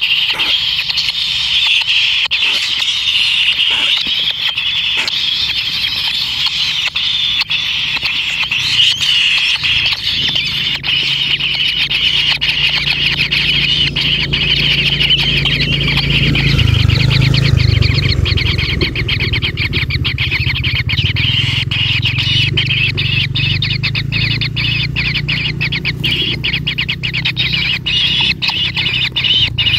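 Kingfisher nestlings calling continuously in the nest, a dense high-pitched chattering squeal made of rapid pulses, getting choppier in the second half, with a low rumble underneath from about ten seconds in.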